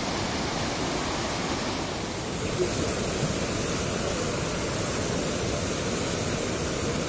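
Fast-flowing river water rushing steadily, a strong current pouring through the pool.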